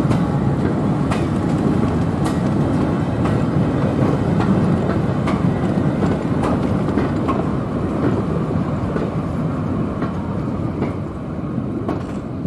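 Heritage railway coaches rolling past close by: a steady rumble, with the wheels clicking over the rail joints about once a second. It eases off near the end as the last coach clears.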